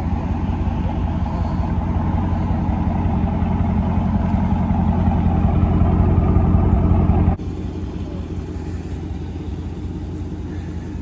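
Dodge Charger Scat Pack's 6.4-litre HEMI V8 idling with a steady low rumble that grows gradually louder. About seven seconds in it drops abruptly to a quieter, steady engine hum.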